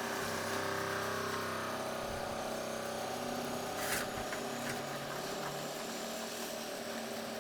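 A small electric motor, likely a power tool, running steadily with a whine. There is a sharp click about four seconds in.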